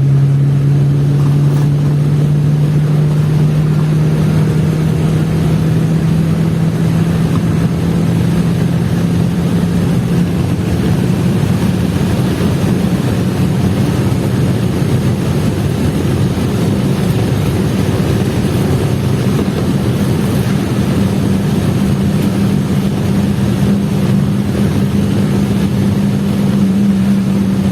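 Chevrolet Vectra's engine pulling hard under full throttle in fourth gear, its pitch climbing slowly and steadily as the car accelerates past 160 km/h, with wind and road noise, heard from inside the car. It runs clean, its misfire cured.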